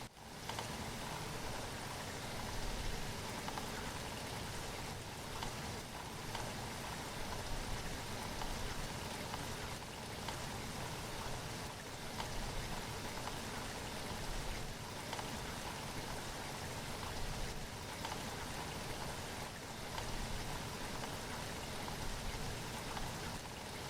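Steady rain falling and pattering on a surface, with a brief dropout at the very start before it picks up again.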